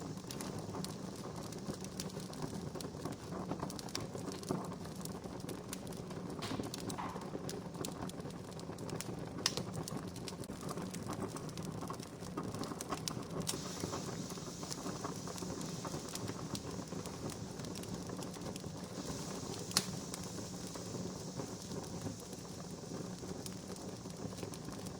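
Wood fire crackling: a steady low hiss with scattered sharp pops, the two loudest about ten and twenty seconds in.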